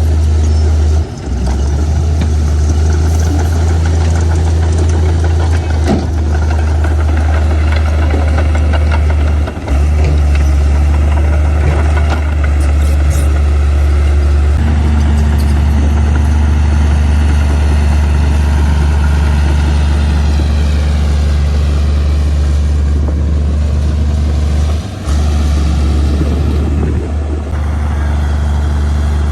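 Heavy diesel engine of earthmoving equipment running with a steady low drone, broken by three very short dips; a faint falling whine is heard over it in the second half.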